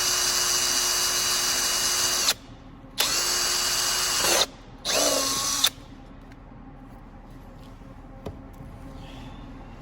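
Power drill running in three bursts at a steady speed, the last one short, each winding down as the trigger is released: drilling a small pilot hole in the blower motor housing for a self-tapping screw to replace a snapped one.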